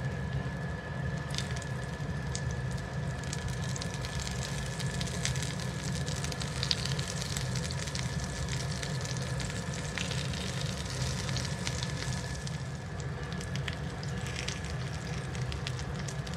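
Aloo tikki (breaded potato patties) shallow-frying in hot oil in a cast iron skillet: steady sizzling with scattered pops and crackles.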